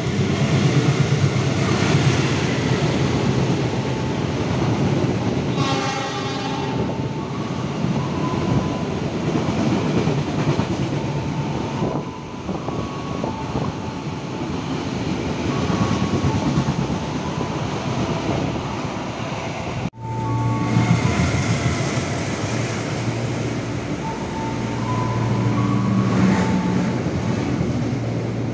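Diesel-hauled passenger train running through a station: a loud rumble of engine and wheels on rail, with a short horn blast about six seconds in. After a sudden cut about two-thirds of the way through, the steady rumble of a train heard from inside a coach.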